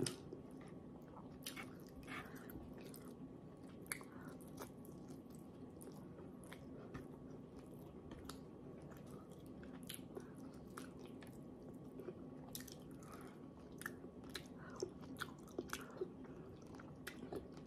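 Quiet close-up mouth sounds of a person eating soft fish and rice by hand: soft chewing with many small scattered clicks and smacks over a faint steady hum.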